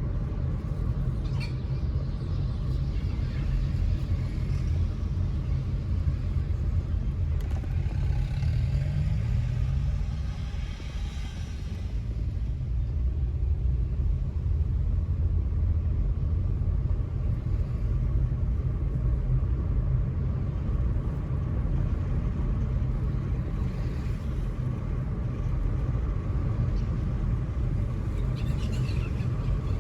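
A car driving: steady low engine and road rumble, with the engine pitch rising briefly about nine seconds in and a short lull just after.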